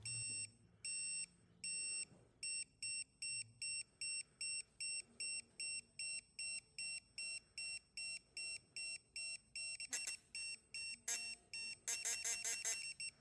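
Digital torque wrench beeping as a bolt is tightened into an aluminum LS engine block: a string of short high electronic beeps, about two or three a second, quickening near the end.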